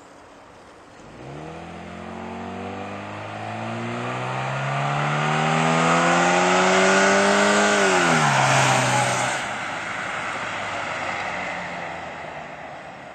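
Chevrolet Cavalier with a homemade snorkel intake accelerating past, its engine note rising steadily and getting louder, then dropping sharply as it goes by and fading away.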